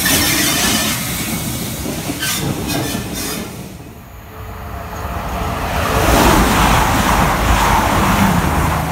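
A steam locomotive moving slowly with a few sharp metallic clanks. Then an East Midlands Trains Class 222 Meridian diesel multiple unit approaches and rushes past at speed, a rising roar of wheels and rails that is loudest near the end.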